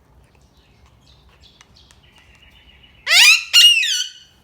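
A pet parrot screeching twice, loud and clear-pitched: the first call sweeps upward and the second, half a second later, slides down. Faint chirps come before it.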